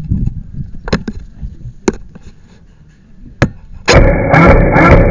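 Three single sharp cracks of an airsoft gun firing, spaced about a second apart, over low handling and movement rumble. About four seconds in, loud music with a steady beat cuts in and takes over.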